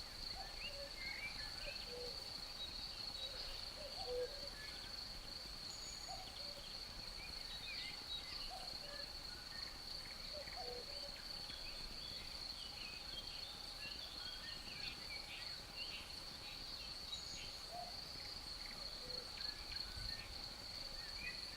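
Forest ambience: a steady, high-pitched trill of crickets, with scattered short chirps of songbirds and a cuckoo's two-note call repeated every few seconds.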